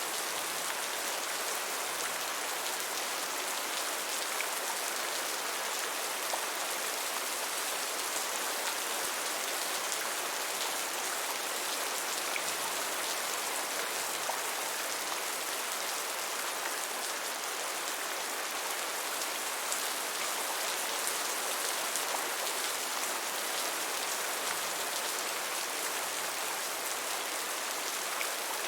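Steady rain falling, an even hiss with a fine patter of drops and no change in strength.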